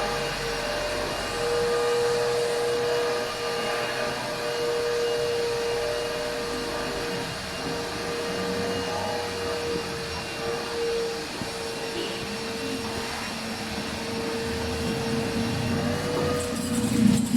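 Car wash machinery running with one steady, unbroken whine over a constant hiss.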